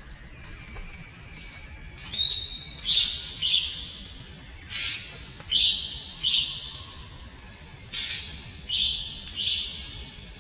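A bird calling in three phrases, each made of three short, high notes.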